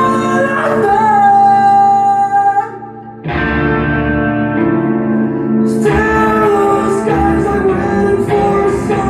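Live rock band playing a sustained, droning passage with a held high note, cutting out briefly about three seconds in before the full band comes back in.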